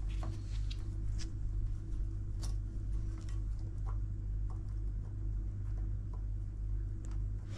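Scattered light clicks and taps of washing-machine parts and wiring being handled during reassembly, over a steady low hum.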